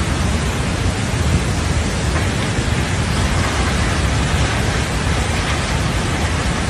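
Floodwater rushing: a loud, steady roar of water that holds even throughout.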